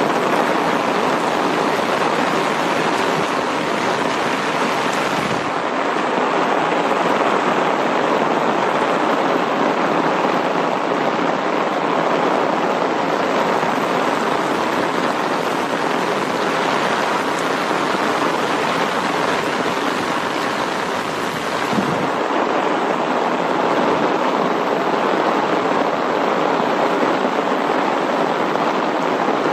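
Steady medium-to-heavy rain: a dense, even hiss of falling drops that does not let up.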